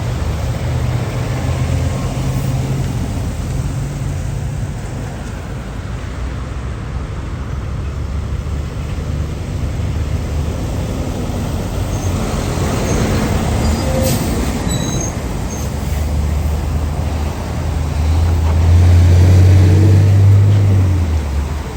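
Road traffic with heavy diesel trucks going by, their tyres and engines making a steady roar. A deep engine drone at the start fades, and another swells to its loudest near the end as a big rig passes close. There are a few short high squeaks partway through.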